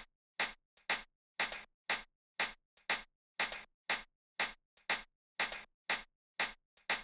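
A single programmed hi-hat sequence playing on its own: crisp, even hits about twice a second, with a few quieter ghost notes in between.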